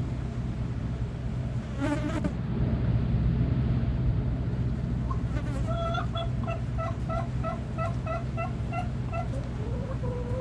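Hens clucking: a short call about two seconds in, then a run of about a dozen evenly spaced clucks, roughly four a second, and a rising call near the end, all over a steady low buzzing hum.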